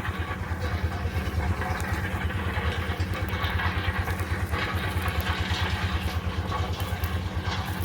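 A machine's engine running steadily, a loud low hum with a fast even pulse and no change in speed.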